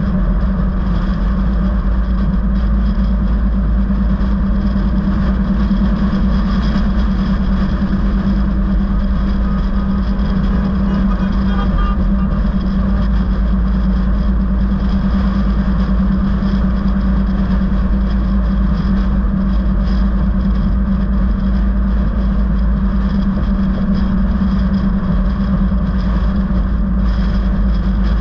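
Steady vehicle noise: engine and road rumble with a constant low drone, unchanging throughout.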